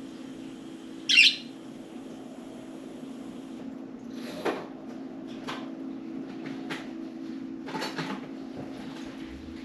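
Pet budgerigars: one loud, sharp chirp about a second in, then a scatter of short chirps and clicks in the second half, over a steady low hum.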